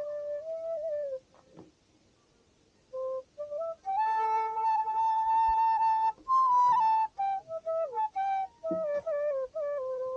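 A flute playing a slow melody in stepwise notes, with a pause of about two seconds early in the phrase and a long held note in the middle.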